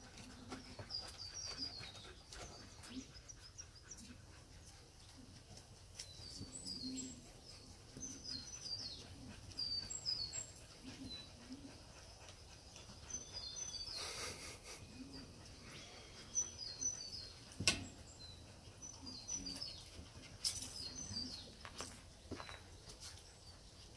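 A small bird chirping repeatedly in short runs of high notes, over the scuffling and claw clicks of Akita puppies playing on wooden decking. A brief rustle just past halfway and one sharp knock about three-quarters of the way through.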